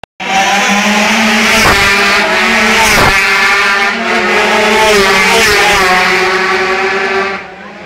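A pack of 125cc racing motorcycles passing at high revs, several engine notes overlapping, rising and falling in pitch as they accelerate and shift. The sound drops off near the end as they pull away.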